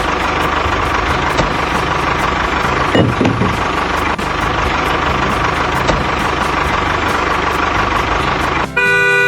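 A motor running steadily, with a faint high whine over a dense mechanical noise. Near the end a horn-like steady tone sounds.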